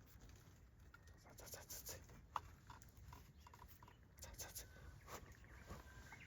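Near silence, with a few faint scattered clicks and ticks, one sharper click about two seconds in.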